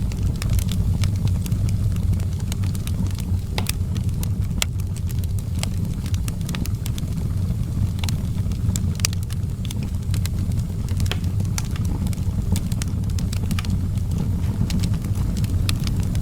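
Wood fire in an outdoor fireplace burning steadily, with frequent irregular sharp crackles and pops over a continuous low rumble.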